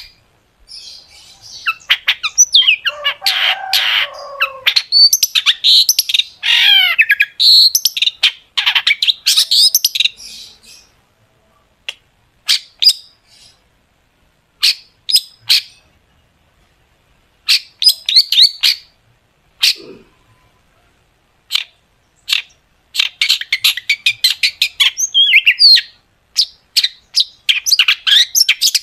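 Long-tailed shrike (cendet) in full song: rapid, sharp, high burst notes ('tembakan') mixed with mimicked phrases. A dense run of quick notes fills the first ten seconds. Then come scattered short calls with pauses, and a second dense run starts near the end.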